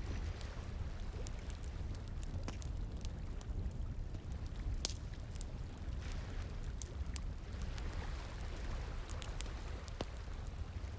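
Wood campfire crackling, with sharp irregular pops, over the steady rush of flowing water.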